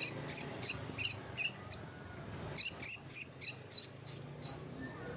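White-rumped shama (murai batu) singing a run of short, sharp, high repeated notes, then after a brief pause a second, faster run of similar notes.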